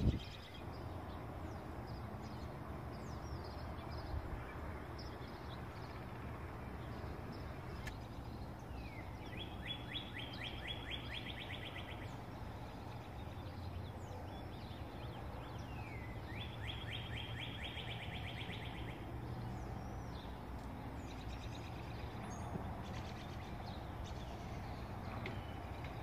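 Songbirds singing, with scattered high chirps throughout. Twice a bird gives a rapid trill lasting two to three seconds, about ten seconds in and again around seventeen seconds in. A steady low hum runs underneath.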